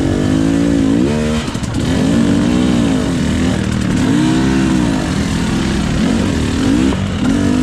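Two-stroke 300 cc engine of a KTM EXC 300 enduro bike being ridden, its pitch rising and falling every second or so as the throttle is opened and closed.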